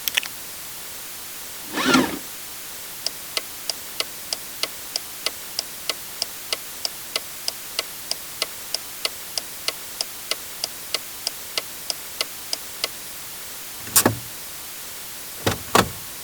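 Truck's flasher relay ticking evenly, about three clicks a second for roughly ten seconds, after a short thud. A few heavier thunks follow near the end.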